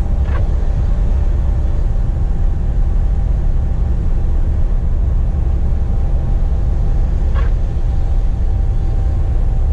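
Scania P420 truck heard from inside the cab while driving, a steady low engine and road rumble with a faint steady hum over it.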